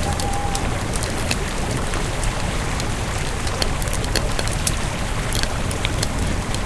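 Campfire burning, the wood crackling with frequent sharp pops over a steady hiss and low rumble.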